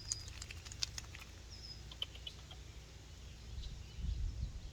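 Faint outdoor ambience: a few light clicks and short, high bird chirps, with a low rumble about four seconds in.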